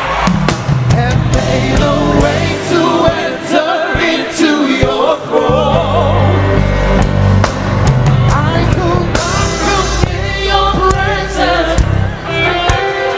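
Live gospel worship song: voices singing over a full band with bass and drums.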